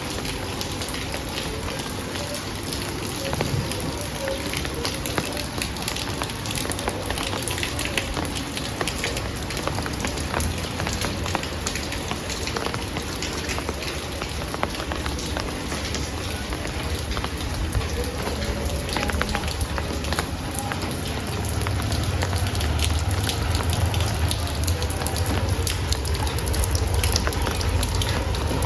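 Heavy rain falling, a dense steady patter of drops. A low rumble builds under it in the second half.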